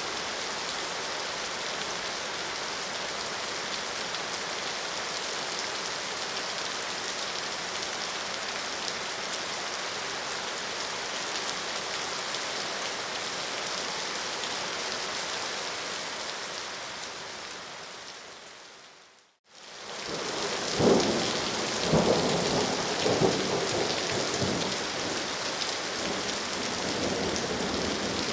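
Steady rain falling. About two-thirds of the way through it fades out to silence for a moment, then returns heavier, with rumbles of thunder a few seconds later.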